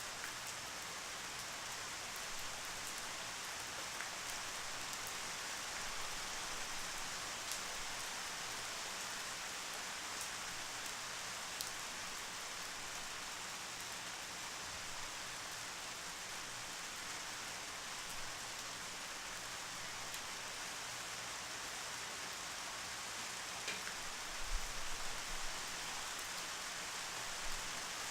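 Steady rain falling, an even hiss with scattered sharper drop ticks. A brief low thump about three-quarters of the way through.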